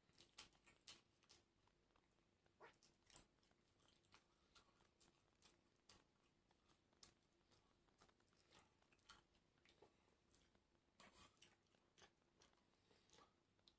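Faint mouth sounds of a person eating: irregular short crunches and wet clicks of chewing and biting, with a denser run of them about eleven seconds in.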